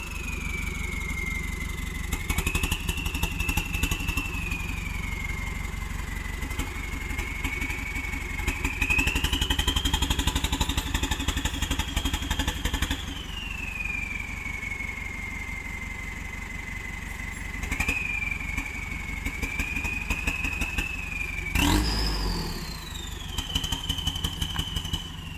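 Mitsubishi L300 pickup's diesel engine labouring uphill under a load of sand, its exhaust giving a high whistling scream over the engine clatter. The whistle rises and falls with engine speed, then leaps up sharply about 22 seconds in and slowly eases back down.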